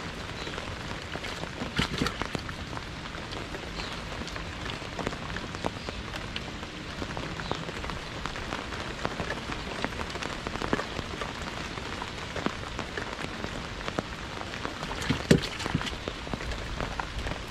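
Steady rain falling, an even hiss with many scattered drop hits, and a couple of sharper knocks, one about two seconds in and one near the end.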